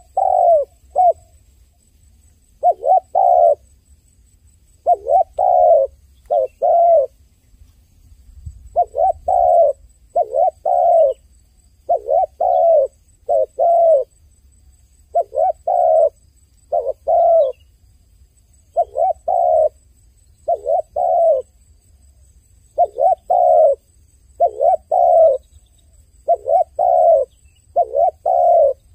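A dove cooing over and over: short, low, hollow coos that dip slightly in pitch, delivered in groups of two or three with short pauses between, about one group every two seconds.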